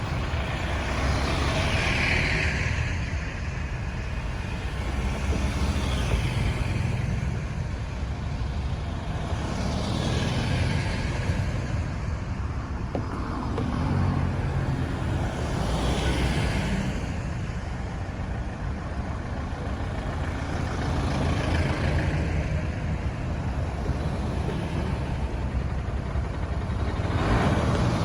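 Busy road traffic: a steady rumble of engines and tyres, with vehicles swelling past one after another every few seconds.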